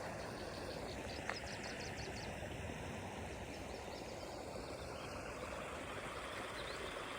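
Steady rush of running water from a stream, with a bird's quick run of faint high chirps about a second and a half in.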